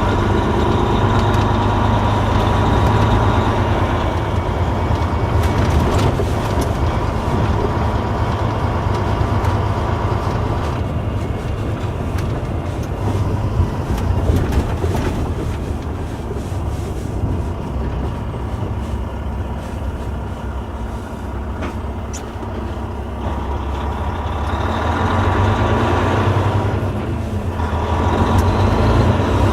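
A Volvo D16 straight-six diesel in a 2009 Volvo 630 semi truck running at road speed, heard inside the cab with road and tyre noise. The engine note eases off in the middle and builds again near the end, with a few sharp knocks along the way.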